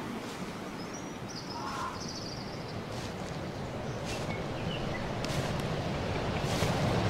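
Outdoor ambience: a steady rushing noise with a few short, high bird calls.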